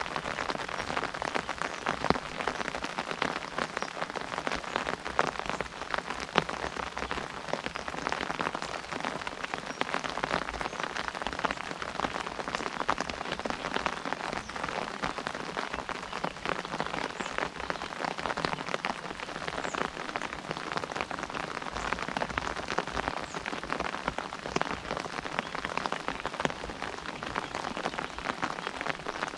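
Steady rain drumming on an umbrella canopy: a dense patter of many individual drop impacts.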